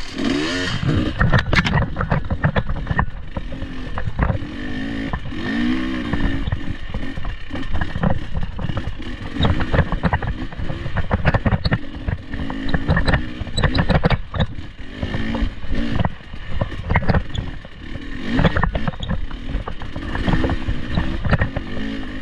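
Off-road vehicle engine revving up and down repeatedly while driving over rough ground, with frequent knocks and clattering from the vehicle bouncing over the terrain.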